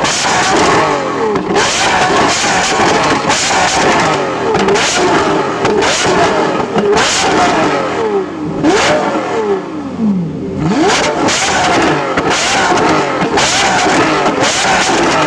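Lamborghini Murciélago LP640's 6.5-litre V12 revved over and over in quick throttle blips, the pitch rising and falling with each one. About ten seconds in the revs drop away toward idle, then it is revved hard again.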